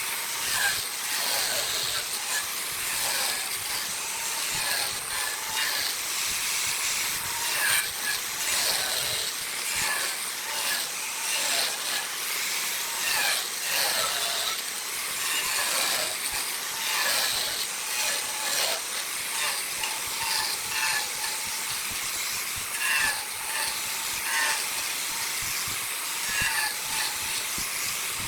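Wood lathe turning a workpiece while a cutting tool rides on the spinning wood, making a continuous rough hiss that swells and eases slightly.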